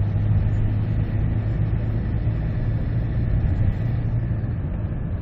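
Engine and road noise heard inside the cabin of a 2015 Kia Carnival minivan cruising at low revs: a steady low hum under an even rush.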